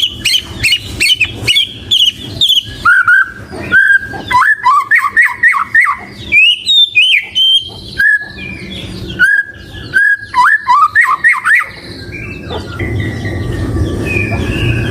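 White-rumped shama (murai batu) singing a fast, varied run of loud, clear whistles and chirping trills. About twelve seconds in, the song drops off to a few fainter notes over a steady low rumble.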